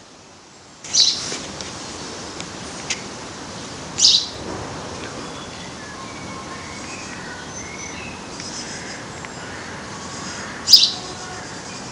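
Birds chirping over steady background noise. Three louder, short, high chirps come about a second in, at about four seconds and near the end, with fainter scattered notes between them.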